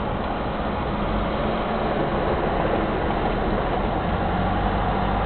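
Steady road and engine noise of a car driving along an interstate, heard from inside the cabin.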